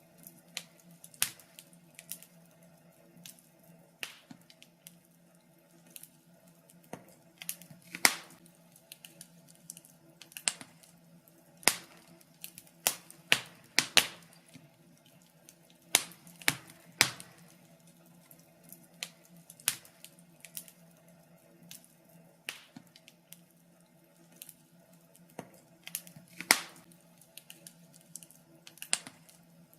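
Wood fire crackling: irregular sharp pops and snaps, several to a few seconds apart, a handful much louder than the rest, over a faint steady low hum.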